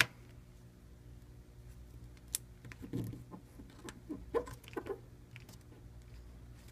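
Faint scattered clicks and short scratching sounds of small hand work on a phone frame, as the model-number sticker is lifted and moved over, over a steady low hum.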